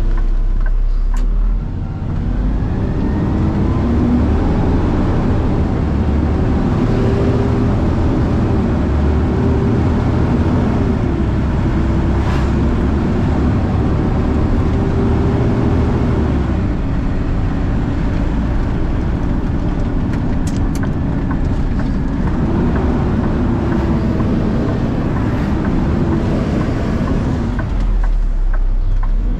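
Truck engine and road rumble heard from inside the cab while driving. The engine pitch climbs as it accelerates a couple of seconds in, drops back twice midway, then rises and falls once more near the end.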